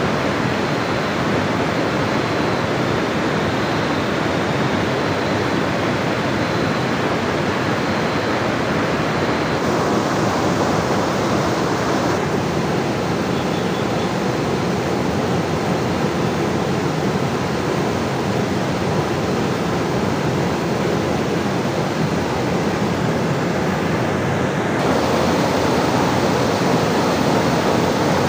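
Steady, loud rushing of water, the sound of heavy rain and a river, with no distinct drops or strikes. Its tone changes abruptly three times: about ten, twelve and twenty-five seconds in.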